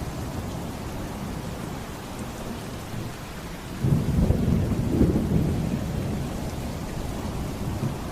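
Thunderstorm: steady rain with a low roll of thunder that breaks in suddenly about four seconds in, stays loudest for a couple of seconds and then fades back under the rain.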